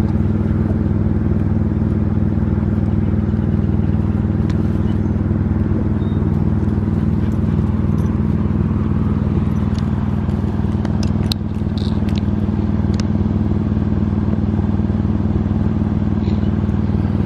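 A steady low mechanical hum, like an engine idling, with scattered light clicks and scrapes over it.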